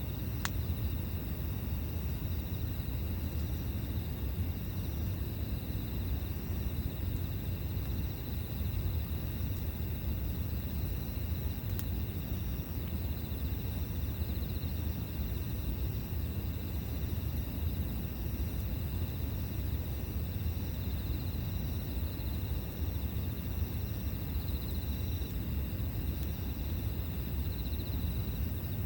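Insects trilling steadily in pulsing high notes over a low, even rumble, with a couple of sharp pops from the campfire: one right at the start and one about twelve seconds in.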